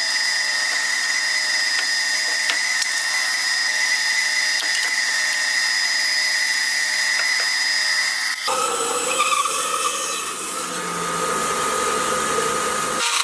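Handheld electric power tool working bamboo root wood, running at a steady high whine. About eight and a half seconds in, the sound switches abruptly to a rougher, lower running tone as the tool bites into the wood.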